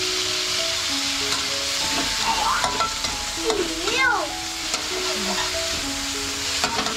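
Sliced meat sizzling in hot oil in an aluminium wok, stirred and scraped with a metal spatula, with a few sharp clicks of the spatula near the end. A background melody plays along.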